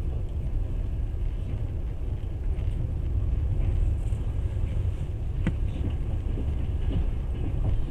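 Passenger train running, a steady low rumble from the wheels and carriage heard from inside the coach, with a single short click about five and a half seconds in.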